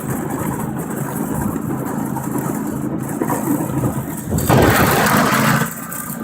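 Riding lawn tractor engine running steadily at speed. About four and a half seconds in, a louder rushing noise joins it for about a second.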